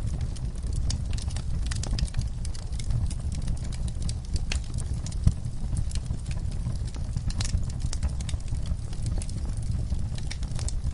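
Campfire crackling: irregular sharp pops and snaps over a steady low rumble, with one louder pop about five seconds in.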